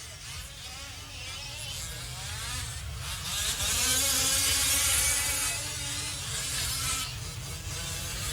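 Small two-stroke gas engines of fifth-scale off-road RC race trucks running, their buzzing pitch rising and falling with the throttle. The sound grows louder in the middle, when trucks pass nearer, then eases.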